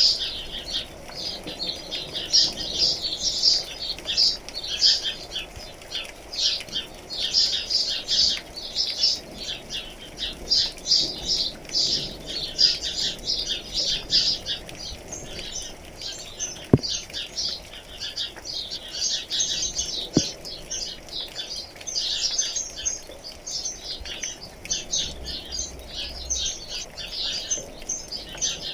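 A chorus of small birds chirping rapidly and continuously, many calls overlapping, over a faint steady patter of rain. Two sharp ticks stand out about two-thirds of the way through.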